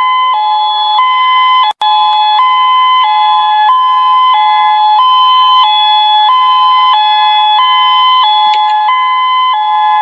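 Electronic two-tone emergency alarm siren, alternating between a lower and a higher pitch about every two-thirds of a second, with a brief dropout a little under two seconds in.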